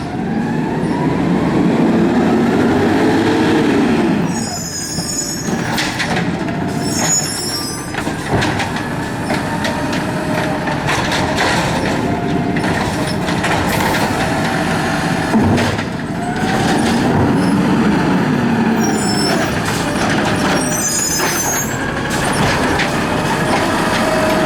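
Garbage truck working: its engine revs up and back down twice over a steady whine, with four short hissing bursts of air in two pairs.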